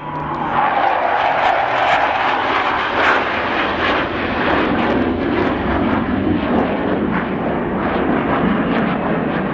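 Hawker Hunter jet's Rolls-Royce Avon turbojet heard in a loud fly-past: a dense jet noise whose pitch falls within the first second or so, then holds steady with a crackling edge.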